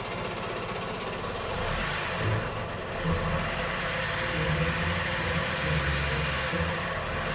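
Honda Gyro X's 50cc two-stroke engine running just after being started, its speed rising and falling unevenly.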